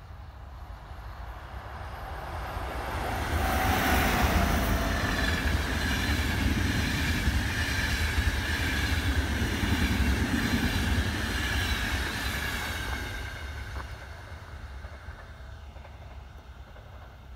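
A train passing by on the track: the noise builds, stays loud for about ten seconds, then fades away. A steady high-pitched whine runs through the loudest part.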